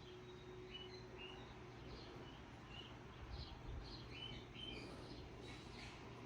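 Faint steady low hum of a Mainstays 42-inch hugger ceiling fan running on high, with scattered short high chirps over it at irregular intervals.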